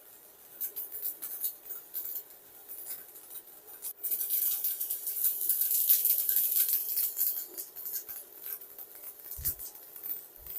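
Stick (MMA) welding arc crackling and hissing from a 3.2 mm electrode burning on thick steel at about 280 A on a Kobe 315 Pro inverter welder, getting louder about four seconds in. The arc runs on without cutting out.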